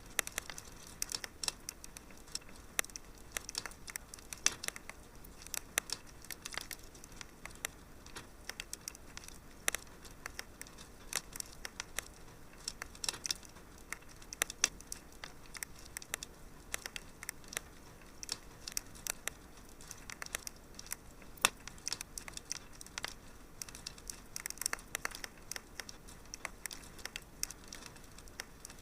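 Wood fire in a fireplace crackling: irregular sharp pops and snaps over a soft steady hiss, with one louder snap about two-thirds of the way through.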